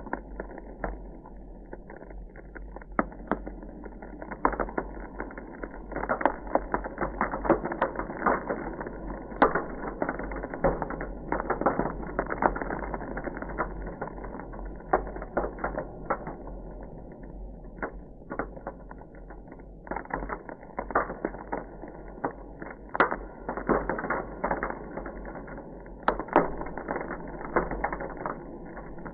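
Ice crackling: a dense, irregular run of small cracks and pops with occasional sharper snaps, over a faint steady low hum.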